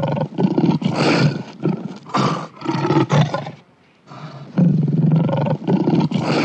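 A lion roaring in a series of deep calls, with a brief pause about four seconds in before the roaring resumes.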